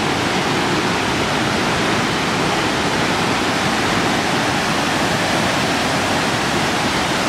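Triple Falls on the Little River thundering in a steady, even rush of falling water, the river running high after heavy rainfall.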